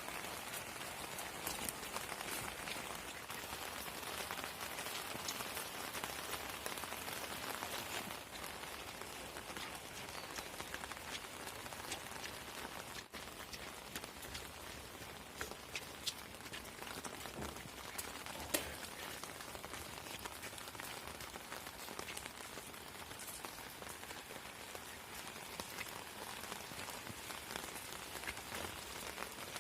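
Steady rain falling, with a few sharper drop impacts standing out, the loudest about two-thirds of the way through.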